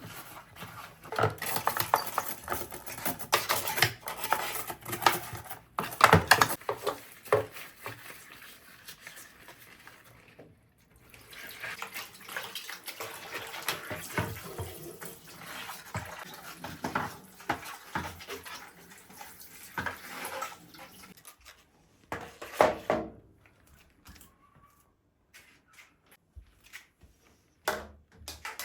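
Household cleaning sounds: an irregular clatter of knocks, clinks and rubbing, busiest in the first seven seconds, with a rougher stretch in the middle and only scattered knocks near the end.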